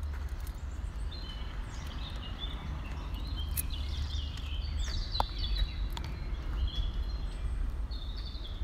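Small birds chirping and singing in a run of short, quick calls, over a steady low rumble.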